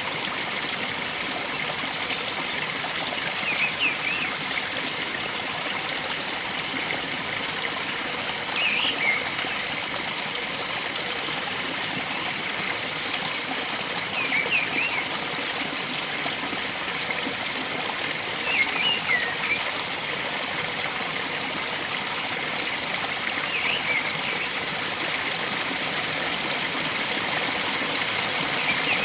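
Steady rush of flowing water, with a short warbling bird call repeating about every five seconds.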